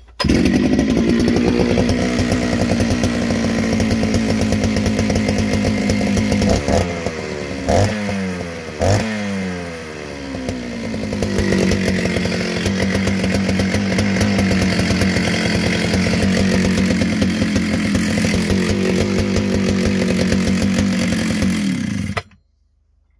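Jonsered 70E two-stroke chainsaw, fitted with a Jonsered 52E muffler, idling steadily. About six seconds in it is revved several times, rising and falling in pitch, then it settles back to idle. It cuts out abruptly near the end.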